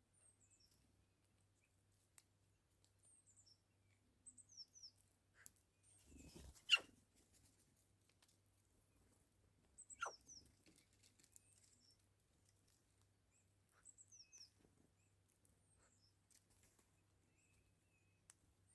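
Faint high chirps of small birds calling on and off, short falling notes, with a few sharp taps, the loudest about seven and ten seconds in.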